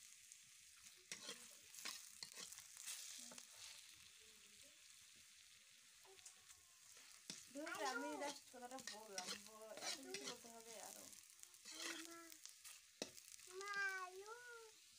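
Ginger slices frying in oil in an iron karahi: a faint sizzle, with a metal spatula scraping and clicking as they are stirred. From about halfway through, several wavering, voice-like cries sound over the frying and are louder than it.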